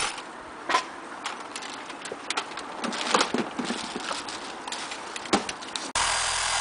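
Scattered light clicks and knocks of hand and tool work on a car's front end. Just before the end the sound switches abruptly to a steady car engine idling.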